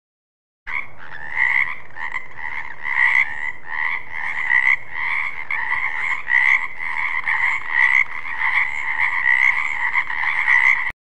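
Frog croaking in a steady repeated rhythm, about two calls a second. It starts a moment in and cuts off abruptly near the end.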